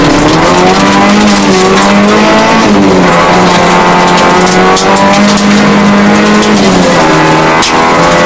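Rally car engine heard from inside the cabin at full throttle on a gravel stage, its note climbing and then dropping sharply at gear changes about three seconds in and again near seven seconds. Frequent sharp clicks from the loose road surface run over it.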